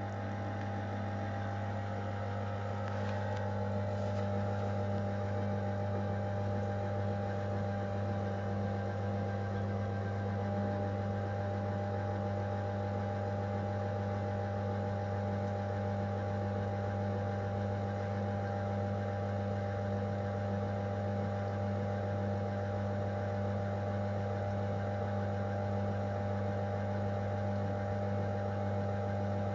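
AEG Öko-Lavamat 693 washing machine running on a 95 °C boil wash: a steady machine hum that grows a little louder over the first few seconds, then holds even.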